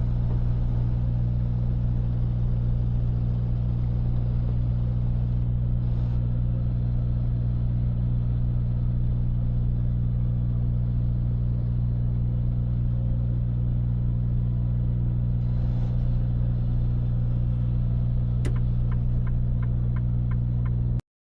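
Semi truck's diesel engine heard from inside the cab, running at a steady low drone while the truck is driven. A run of light, evenly spaced clicks comes in near the end, and the sound cuts out briefly just before the end.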